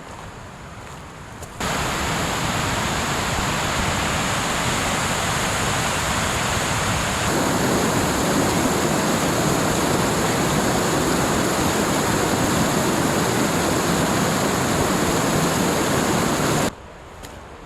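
Rushing water, a waterfall or cascading stream, as a steady loud roar that starts abruptly about two seconds in and stops just as suddenly near the end; about seven seconds in it turns fuller and deeper.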